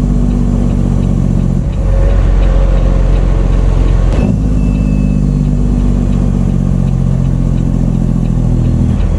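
Straight-piped Caterpillar C15 diesel of a loaded grain semi running under way, with an even engine note. About two seconds in the note drops to a deeper rumble, and it comes back just after a short click near the middle.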